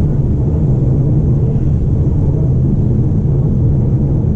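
MTR East Rail Line R-Train electric multiple unit running, heard from on board: a steady low rumble of wheels on track.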